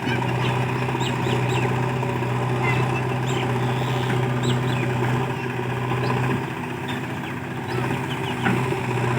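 Diesel engine of heavy machinery running steadily. Its note drops off about six seconds in and picks back up a second and a half later.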